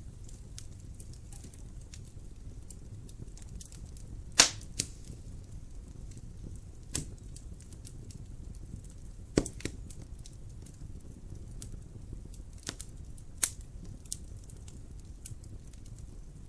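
Wood fire crackling in a fireplace: a steady low rumble of the flames under constant small crackles, with sharp pops of the burning logs, the loudest about four seconds in and others around seven, nine and thirteen seconds.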